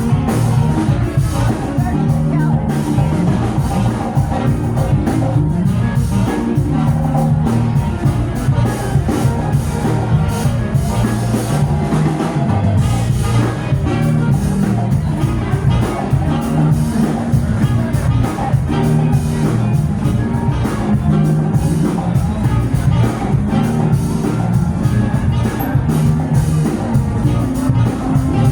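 A rock band playing live, with drum kit and bass guitar keeping a steady beat.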